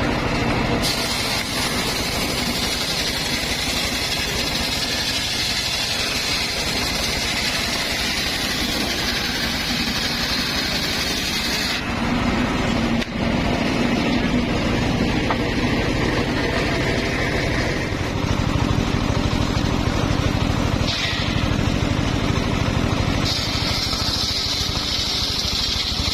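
Large circular saw running steadily while cutting timber. The higher hiss drops away about twelve seconds in and comes back near the end.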